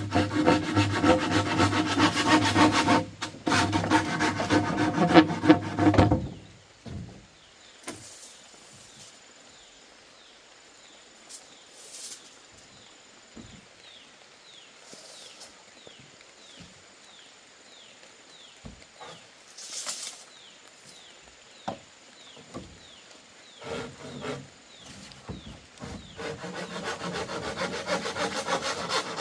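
Saw strokes rasping through bamboo for about six seconds. Then a quieter stretch with a few light knocks and a run of short high chirps, before the sawing starts again near the end.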